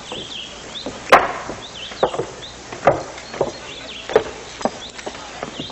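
A series of about six sharp wooden knocks, irregularly spaced half a second to a second apart, the loudest just after one second in, with birds chirping.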